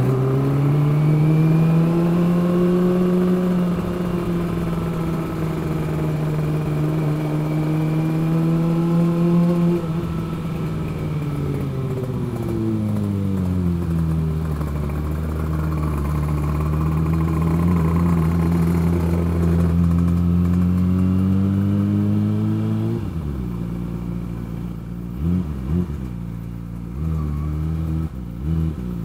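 Motorcycle engine under way, its pitch slowly rising and falling as the throttle and speed change. Near the end it drops to a steady idle, with a few short blips of the throttle.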